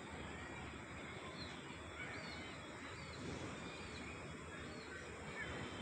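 Several small birds chirping, with short high calls coming one after another throughout, over a steady outdoor background hiss.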